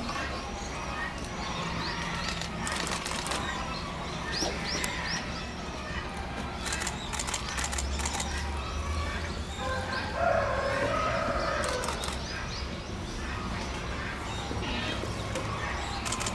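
Small birds chirping over and over, with scattered sharp clicks and flutters, and a louder, short pitched call a little after ten seconds in.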